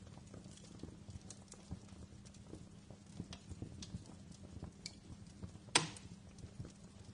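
Wood fire crackling in a fireplace: scattered small snaps and pops over a low steady rumble, with one louder sharp pop about three quarters of the way through.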